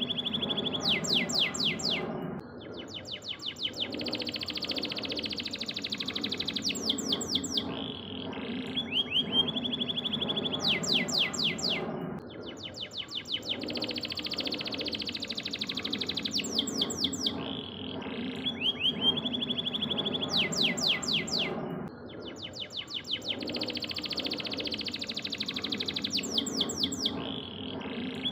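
Domestic canary singing a repeating song phrase: a held high whistle, then a quick run of falling notes, then a dense rolling trill. The phrase comes round about every ten seconds, three times.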